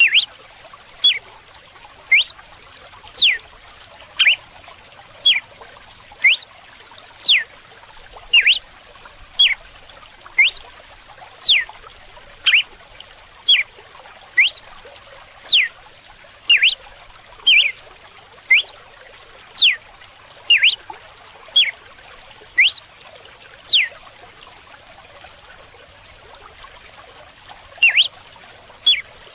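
Red-cowled cardinal repeating its 'whip' song. Sharp high whistles sweep steeply down, alternating with short lower notes at about one a second, with a pause of a few seconds near the end. Under it runs a steady trickle of running water.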